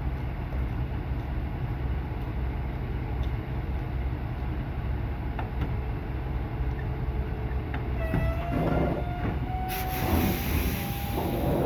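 Semi-truck diesel engine running with a steady low rumble. From about eight seconds in a rising whine joins it, followed by a loud hiss near the end as the truck eases forward.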